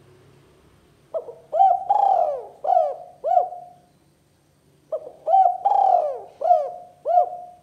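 Spotted dove (tekukur) cooing: two phrases of about five rising-and-falling coos each, the second phrase starting about five seconds in.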